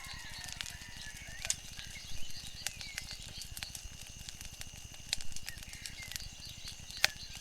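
Wood fire crackling, with irregular sharp pops and a couple of louder snaps, over a steady low rush.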